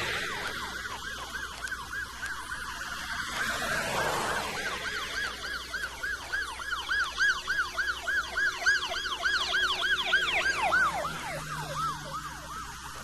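Police car 'yelp' siren, a fast rising-and-falling wail about four times a second, passing at speed: its pitch drops as it goes by, and it stops about a second later. A rush of vehicle noise swells about four seconds in.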